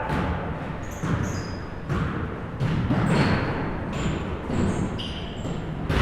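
Basketball game in a gym: a ball bouncing on the court about once a second, with short high squeaks and echoing hall noise between the bounces.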